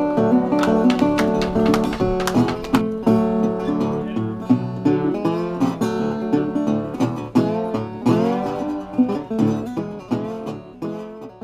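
Guitar music: picked notes and chords with bent, sliding notes, fading down near the end.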